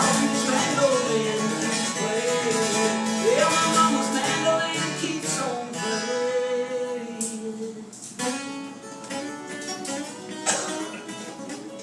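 Acoustic folk song with acoustic guitar accompaniment. A singing voice carries a line through the first half, then picked string playing goes on alone.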